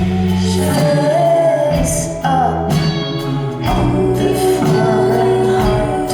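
Live pop band performance with a woman singing over bass, drums and guitar, heard in a large hall.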